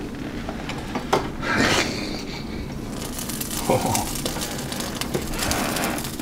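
Corned beef being laid onto toast in a frying pan, with a sharp click about a second in and a short rustle. From about three seconds in the pan sizzles steadily.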